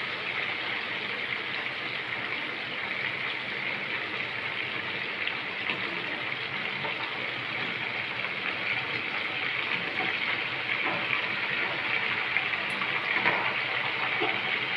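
Chicken pieces deep-frying in oil in a pan: a steady sizzle and crackle that grows slightly louder in the second half.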